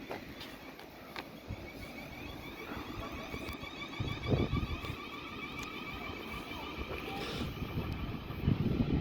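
Electric train approaching along the platform: a steady high whine over a rumble that grows slowly louder, with gusts of wind on the microphone.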